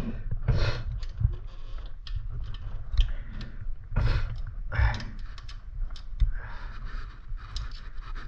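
Irregular clicks and rattles from a mountain bike's chain and rear derailleur being worked by hand during a shifting adjustment, with a few louder knocks about half a second in, at about four seconds and near five seconds.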